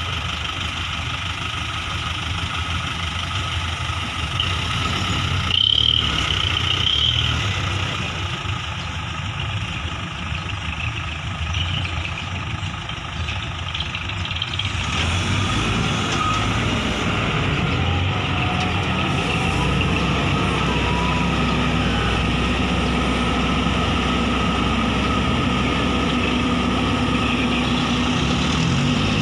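Truck engine running steadily, getting fuller and louder from about halfway through. A brief high-pitched tone sounds about six seconds in.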